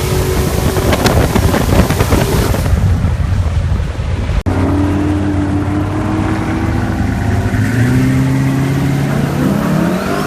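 Twin-turbo cast-iron LQ9 V8 in a drag-built VE Commodore Clubsport running hard; its note is rough and noisy at first. After a brief cut it holds a steady pitch and then climbs near the end as the revs rise.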